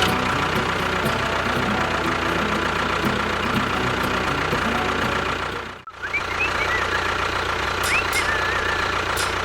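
A small engine running steadily with a fast, even knock, cut off for an instant a little past halfway before it carries on.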